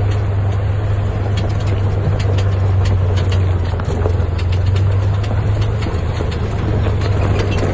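Off-road vehicle engine running steadily while driving down a rough mountain trail, with frequent sharp clicks and rattles over the low hum.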